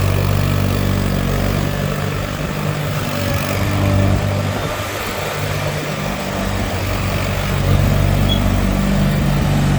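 John Deere 318 lawn tractor's Onan two-cylinder engine running steadily. It grows weaker a couple of seconds in and comes back up near the end.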